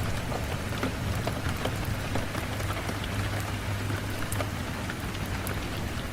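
Steady rain on a window: an even hiss of falling rain with scattered sharp drop ticks and a low steady rumble underneath.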